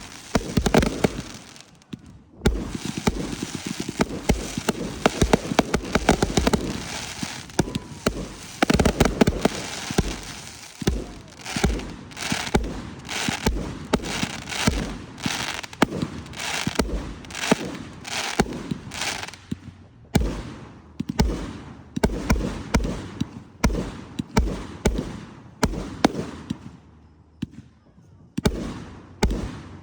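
Fireworks going off: a dense stretch of crackling and bangs, then a rapid run of sharp reports at about two a second, with a brief lull near the end.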